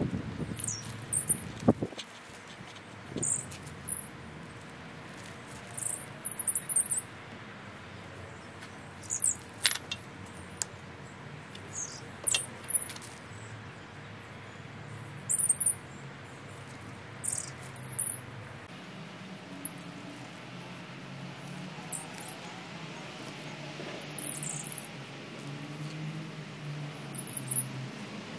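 Garden birds singing: short, high-pitched chirping phrases every second or two.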